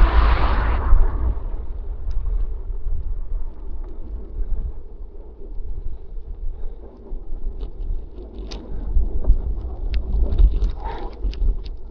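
Wind rumbling on the microphone of a moving bicycle. A passing vehicle is loud at the start and fades away within about a second and a half. Faint clicks and ticks follow towards the end.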